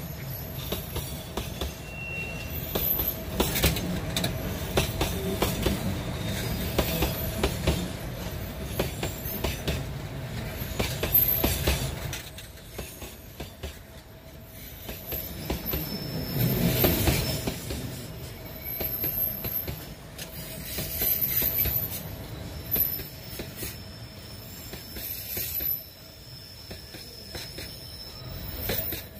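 Limestone freight train rolling past, its steel wheels running on the rails with clicks and high-pitched wheel squeals that come and go. The rumble swells loudest about halfway through.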